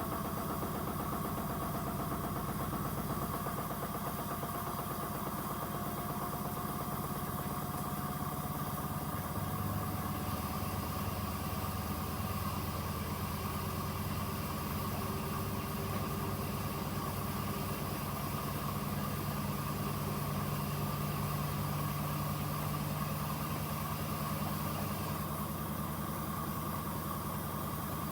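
Two front-loading washing machines running side by side: a steady motor hum with a constant whine. A faint tone slowly falls in pitch over the first dozen seconds.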